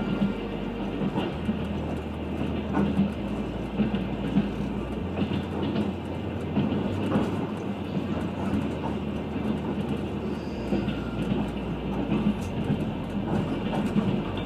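Trans-Siberian passenger train running, heard from inside the carriage: a steady rumble of wheels on rail with scattered light clicks and rattles.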